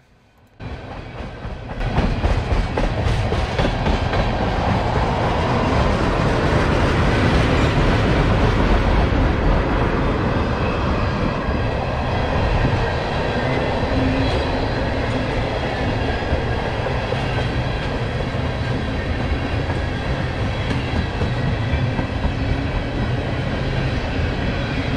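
Freight train of empty ethanol tank cars rolling past: a steady rumble with the clickety-clack of wheels over the rails. It starts about half a second in and comes up to full loudness about two seconds in.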